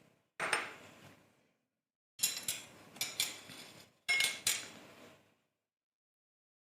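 Kitchen utensils clattering against cookware in three short bursts, each dying away, as cooked asparagus is lifted out of its water.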